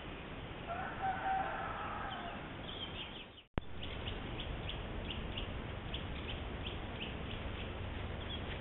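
A bird's drawn-out call lasting about a second, near the start. After a sudden brief dropout comes a run of short high chirps, about three a second, over a steady low hiss.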